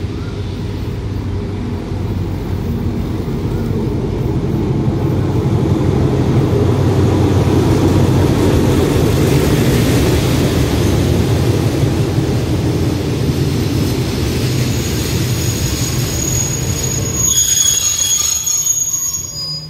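Diesel-hauled passenger train pulling into the station: a heavy low rumble of the engine and rolling carriages that builds as the train comes alongside. Near the end the rumble fades and a high squeal rises as the train brakes to a stop.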